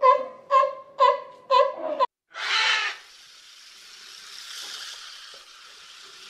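An animal gives five short honking calls in quick succession, about two a second, each with a clear pitch. They stop abruptly, and after a brief burst of noise a steady, softer hiss of running water follows.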